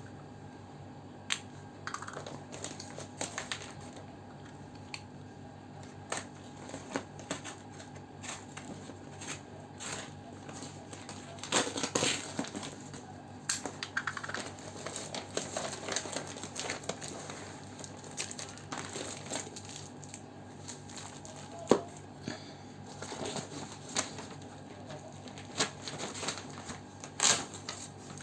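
Packaging being handled during an unboxing: plastic and paper crinkling and tearing, broken by scattered sharp clicks and taps, over a faint steady hum.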